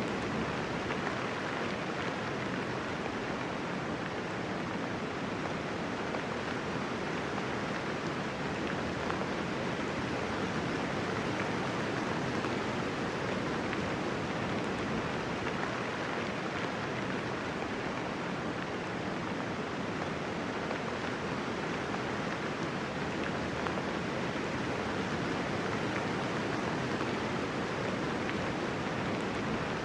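Steady rain falling, an even hiss of dense raindrops with no thunder and no single drops standing out.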